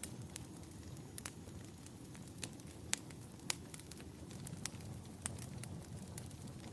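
Wood fire crackling in a fireplace: scattered sharp pops and snaps, a few louder ones, over a steady low rumble of the burning fire.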